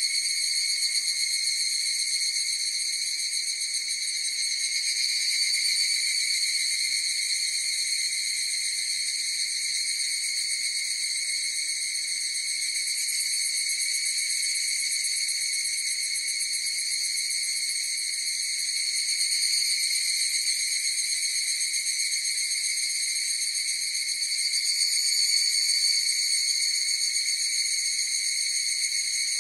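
A chorus of higurashi (evening cicadas) calling together: a steady, high, ringing insect drone that swells slightly a few times.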